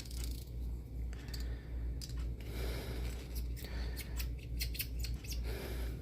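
A hand-held blade cutting open part of a snow globe, giving irregular sharp clicks and short scraping strokes.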